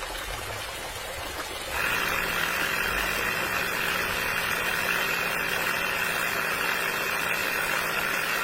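A small motor starts running about two seconds in and keeps up a steady, even whir.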